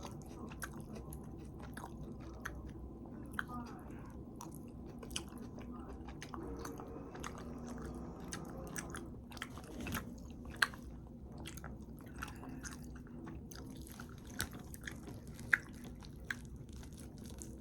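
A person chewing mouthfuls of hamburger, gravy and rice, with scattered small mouth clicks and smacks, over a low steady background hum.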